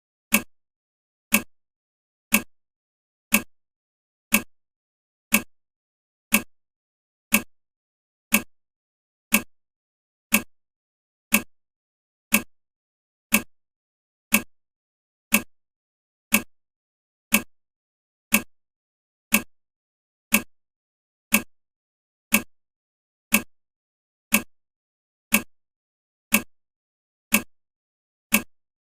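Countdown timer's tick sound, one short tick every second at an even pace.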